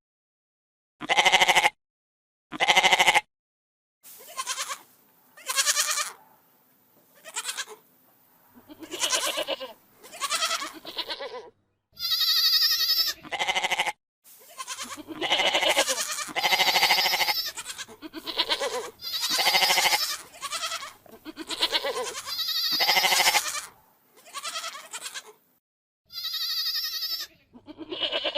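Domestic goats bleating, one call after another: two short, loud bleats in the first three seconds, then a denser run of longer bleats, some close together, including a couple of higher, thinner calls.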